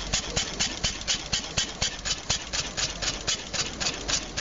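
Benz Patent Motorwagen's single-cylinder engine running steadily at idle: a rapid, even beat of sharp strokes, several a second.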